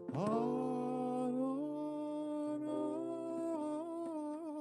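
A cantor's voice sings a long, wordless melismatic passage of liturgical chant: it slides up into a held note just after the start, then sustains wavering notes with vibrato, over a sustained keyboard chord that shifts about halfway through.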